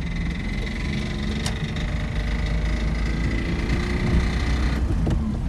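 Car engine running with a rattling (ガラガラ) abnormal noise, which the owner takes for the start of engine seizure. A thin high whine sits over it and fades out near the end.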